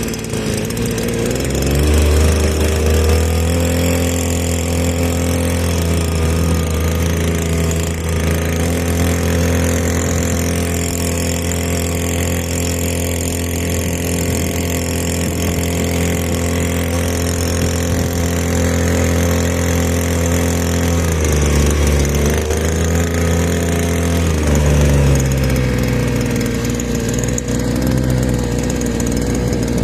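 A small 2-hp outboard motor runs steadily under way. It revs up about two seconds in, drops briefly about twenty-one seconds in and again around twenty-four seconds, then picks back up.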